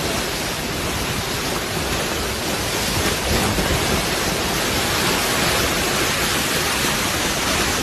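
Loud, steady rushing noise of a storm: wind and breaking waves, with the wind buffeting the microphone.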